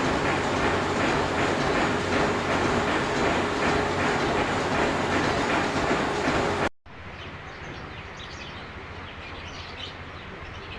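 Metal lathe running, a loud steady hum with a rhythmic clatter, which cuts off suddenly about two-thirds of the way in. Quieter background noise with faint bird chirps follows.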